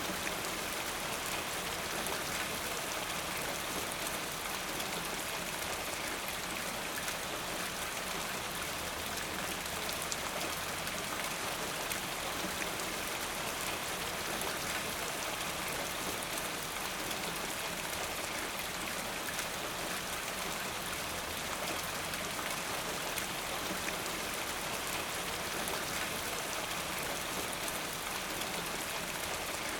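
Steady rainfall, drops pattering on a surface in an even, unbroken hiss.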